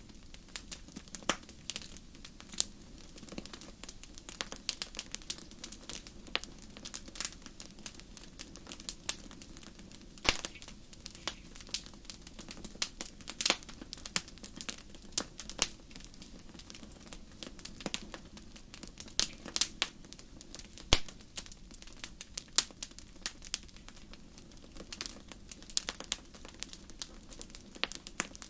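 Wood campfire crackling, with irregular sharp pops and snaps over a low steady hiss of the burning.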